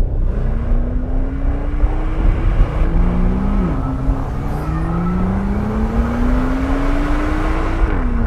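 BMW M2 Coupé's turbocharged straight-six accelerating hard on track. The revs climb, drop at an upshift about three and a half seconds in, climb steadily again through the next gear, and drop at a second shift near the end.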